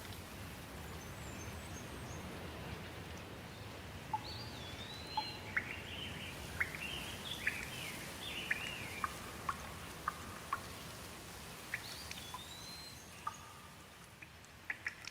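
Steady rain with birds calling over it: a whistled call that rises and falls about four seconds in and again near twelve seconds, with a run of short chirps between. Scattered drip ticks grow more frequent near the end.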